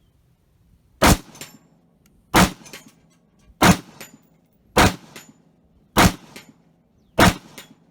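Six rifle shots from an 11.5-inch AR-15 pistol with a Sons of Liberty NOX compensator, fired in steady succession about a second and a quarter apart. After each shot, about a third of a second later, comes a faint tap: the bullet hitting a steel plate at 100 yards.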